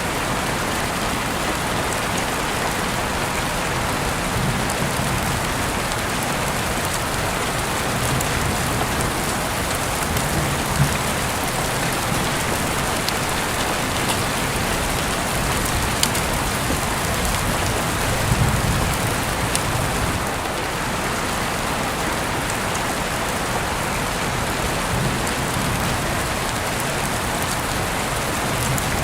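Heavy rain falling steadily, a dense even hiss with scattered individual drops ticking close by. Brief low rumbles come through twice near the middle.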